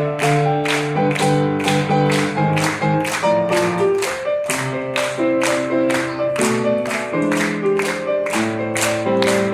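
Solo piano playing an upbeat pop melody with chords, notes struck in a steady beat of about three a second over a changing bass line.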